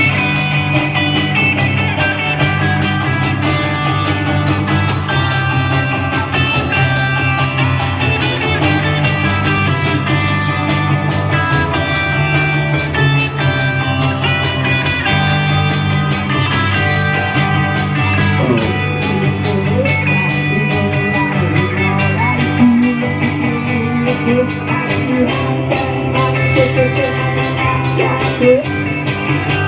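Live rock band playing the song with electric guitars over a steady drum beat, with no singing.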